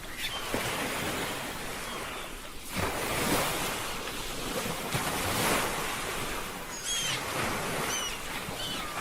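Ocean waves washing onto a beach, with a wave surging in about three seconds in and easing off. A few short high calls come near the end.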